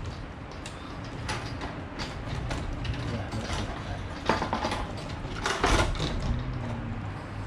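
Irregular clicks and knocks from handling the fuel pump assembly just pulled from the truck's tank, its parts broken inside, over a steady low hum.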